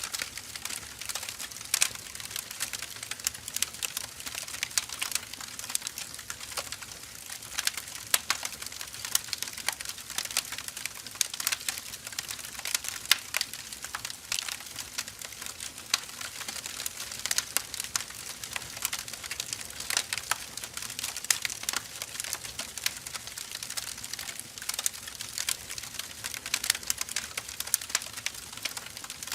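Firewood burning, crackling steadily with many small irregular snaps and pops.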